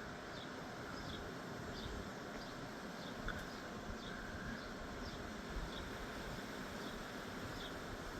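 Quiet outdoor ambience: a steady low wind rumble on the microphone, with a faint high chirp repeating roughly every half second to second.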